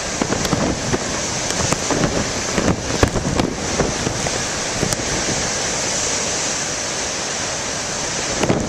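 Large storm waves breaking and surging in a steady rush, with wind buffeting the microphone; a little louder about three seconds in.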